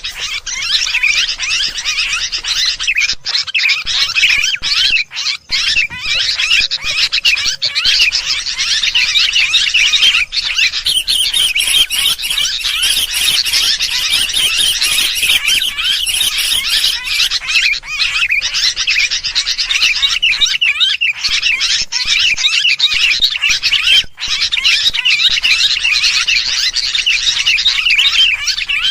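Sooty-headed bulbuls (kutilang) chattering noisily in a dense, continuous chorus of overlapping chirps. This agitated flock chatter is a bird-lure call used to draw other birds in.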